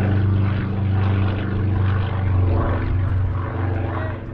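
Propeller aircraft's piston engine running at a steady pitch, a loud, even drone.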